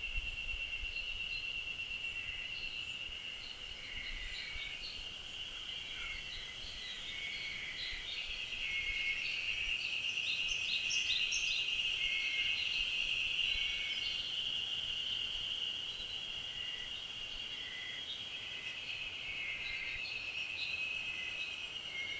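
Forest ambience: a steady high-pitched insect trill, swelling a little in the middle, with many short bird chirps scattered through it.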